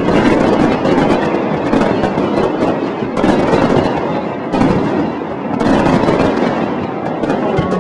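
Aerial fireworks going off in rapid succession: dense overlapping bangs and crackling, coming in clumps.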